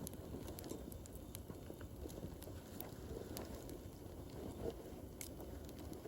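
Wood fire crackling in a fire pit: irregular sharp pops over a steady low hiss of the flames, with a louder pop about five seconds in.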